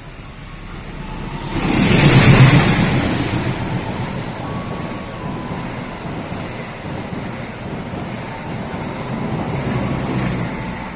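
A vehicle passing close by: a loud rush of noise peaks about two seconds in, then gives way to a steady running noise.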